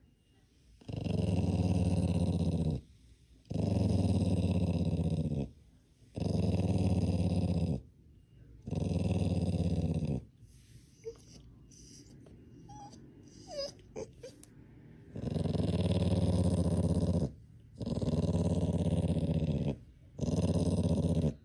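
A dog growling in long, drawn-out growls of about two seconds each, seven in all, with short breaks between them. In a quieter stretch near the middle there are a few brief whimpers.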